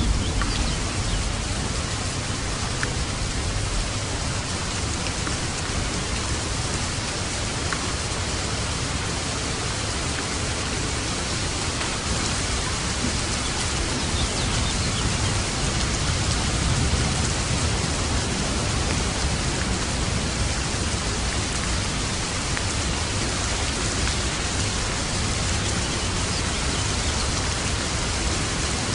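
Steady, dense rainfall with a low rumble of light thunder underneath, swelling a little about midway.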